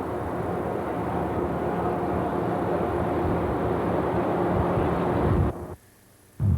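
Steady low rumble with a faint hum. It cuts out abruptly for under a second near the end, where the recording breaks, then resumes.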